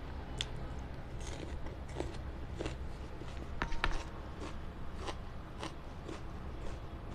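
A person chewing food close to the microphone, with sharp crunches about every half second and a louder crackling cluster a little before halfway.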